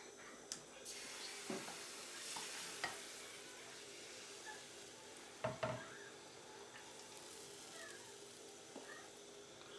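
Food sizzling in a frying pan while being stirred, with a few light knocks of a utensil against the pan, the loudest two about five and a half seconds in.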